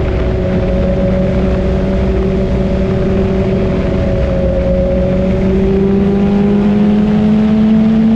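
Motorcycle engine running under way at a steady cruising speed, its pitch dipping slightly and then rising gently over the last couple of seconds as it speeds up.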